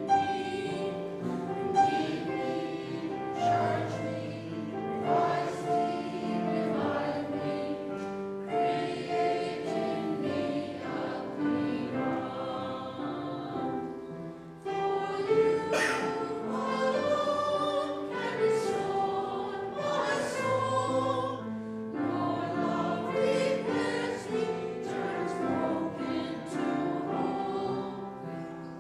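A church choir singing a sacred piece in harmony with instrumental accompaniment, held low notes sounding beneath the voices. There is a short break between phrases about halfway through.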